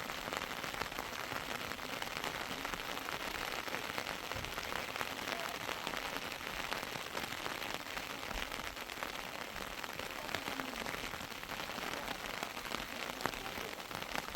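Heavy rain falling steadily, a dense patter of many small drops.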